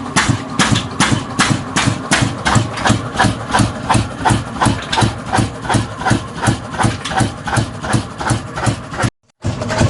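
Old 25 HP black diesel engine running with a steady, even beat of about four knocks a second. The sound cuts out for a moment near the end.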